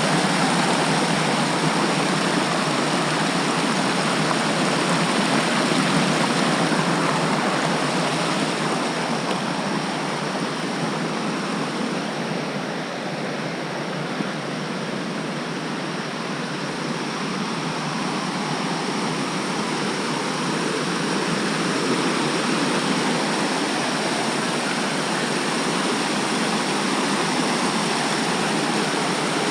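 Steady rushing of water from a mountain stream or waterfall, an even noise that eases slightly around the middle and then comes back up.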